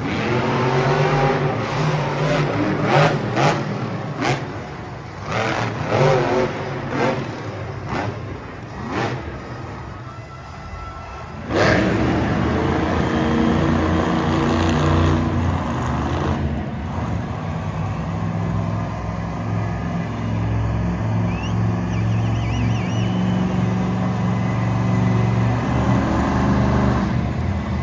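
Monster truck engine revving in a series of short surges, then about eleven seconds in jumping suddenly to a loud, steady run at high revs.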